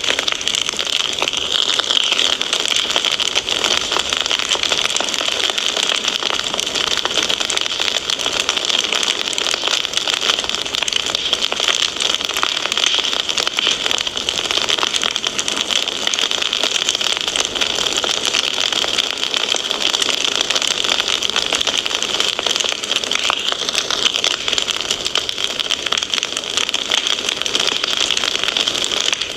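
Wood fire crackling in a fireplace: a dense, unbroken stream of small pops and snaps over a steady hiss.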